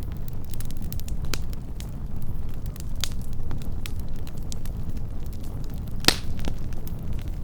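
Fire crackling: scattered sharp pops and snaps over a low, steady rumble, with one louder pop about six seconds in.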